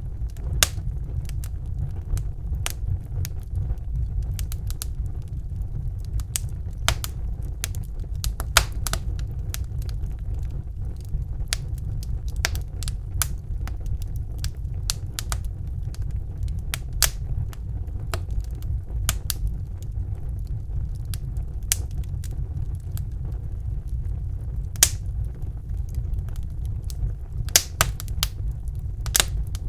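Wood fire burning in a brick fireplace: irregular sharp pops and crackles over a steady low rumble of the flames.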